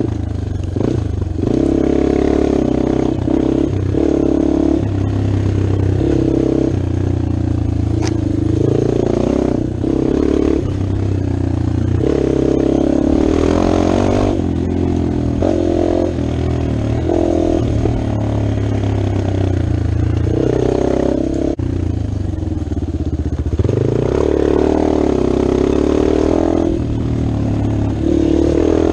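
Dirt bike engine being ridden, its pitch rising and falling again and again as the throttle opens and closes.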